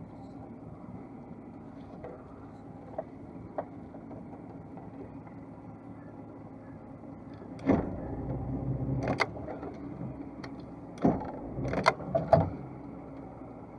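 A steady low mechanical hum, with a run of knocks and clatters in the second half, the loudest a few sharp knocks about eight, eleven and twelve seconds in.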